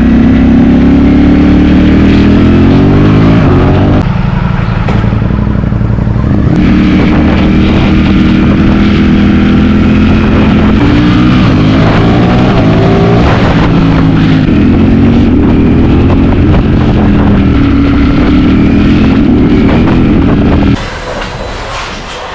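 Ducati Streetfighter V4 motorcycle's V4 engine running loud and being revved, its pitch rising and falling again and again, with a few abrupt jumps in tone. The sound drops away sharply near the end.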